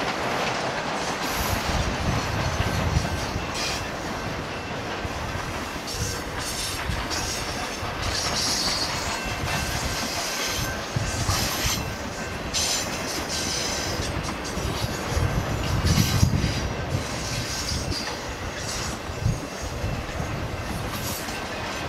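BNSF intermodal freight train cars rolling past at steady speed: a continuous rumble of steel wheels on rail with repeated clacks over the joints, and brief high wheel squeals now and then.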